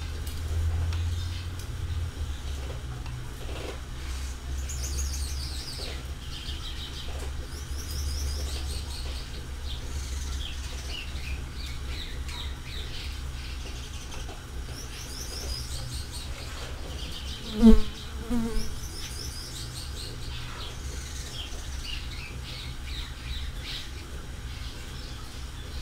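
Small birds chirping: many short, high, falling chirps, repeated again and again over a steady low rumble. A sudden loud thump comes about eighteen seconds in.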